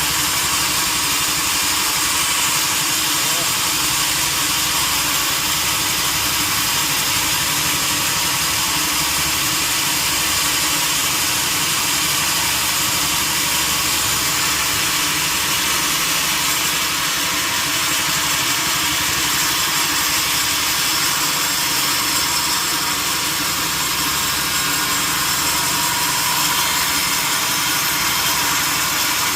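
Sawmill machinery running with a steady, even mechanical noise that holds the same level throughout.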